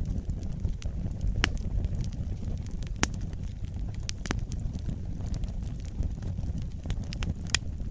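Wood fire in a fireplace burning with a steady low rumble of flame and irregular sharp crackles and pops from the burning logs, the loudest pop about three seconds in.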